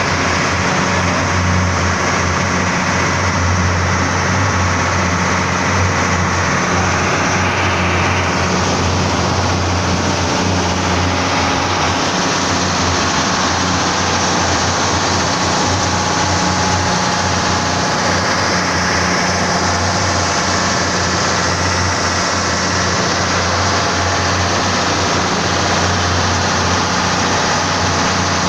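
Boat engine running steadily and loud, a constant low drone with no change in speed.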